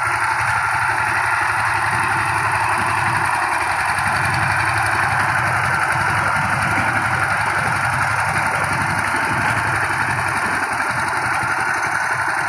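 Power tiller engine running steadily, its firing pulses coming in a rapid, even beat while it works the field.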